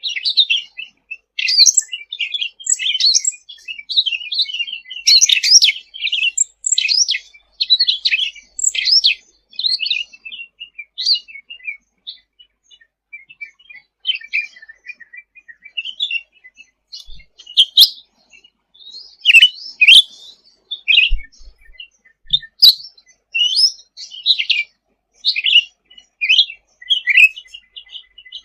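Cucak ranting (cucak rante) songbird singing a loud, rapid chattering song of short high chirps and trills. The song is busiest at first, thins out in the middle, then picks up again, with a few sharp clicks partway through.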